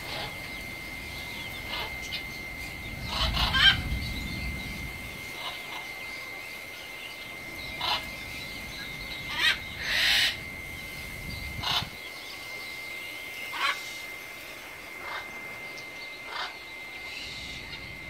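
Birds giving short scattered calls every second or two, the loudest about three and ten seconds in, over a steady high thin tone, with a low rumble about three seconds in.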